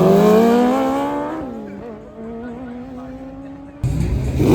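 A racing vehicle's engine accelerating away down a drag strip, its pitch climbing, then fading with distance. Near the end it is cut off abruptly by a louder burst of engine noise.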